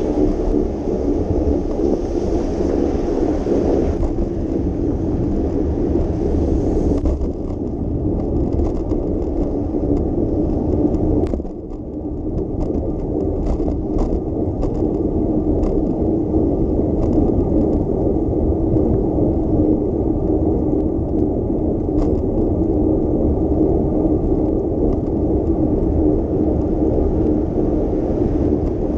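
Steady low rumble of a bicycle ride on wet city roads: tyre and road noise. A higher hiss rides over it for the first several seconds, and light clicks and rattles come through after that.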